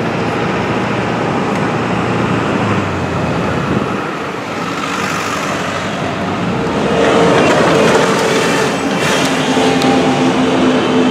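Freight train running on the rails, a steady noise that grows louder about seven seconds in, with a few steady tones coming through.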